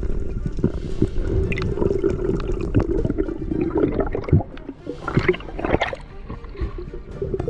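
Muffled water noise with bubbling and gurgling, as heard underwater, with many small clicks and a couple of louder bubbly bursts about five to six seconds in.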